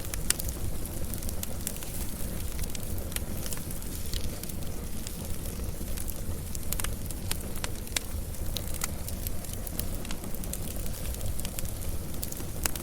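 Wood fire burning with a steady low rumble and frequent sharp crackles and pops scattered throughout.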